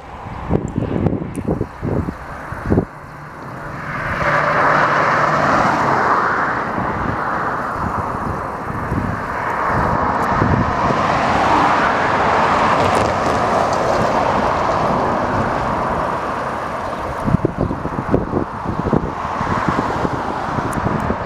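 A truck driving past on the road: tyre and engine noise swells about four seconds in, holds for roughly ten seconds and eases off. Wind buffets the microphone before and after.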